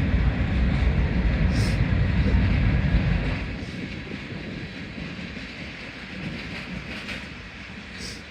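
Norfolk Southern ballast train's cars rolling past at low speed, a low rumble of steel wheels on rail with scattered sharp clicks; the rumble drops off noticeably about three seconds in.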